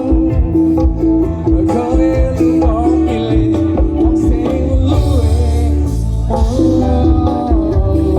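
Live dangdut koplo band music: a melodic lead line with bending, sliding notes over heavy bass and busy drums.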